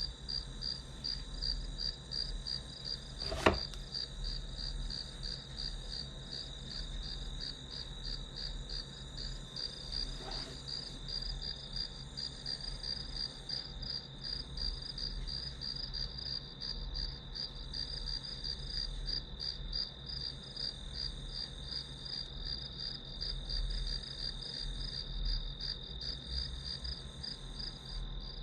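Crickets chirping steadily: a high, rapidly pulsed trill over a continuous high tone. A single sharp click about three and a half seconds in, and a fainter knock near ten seconds.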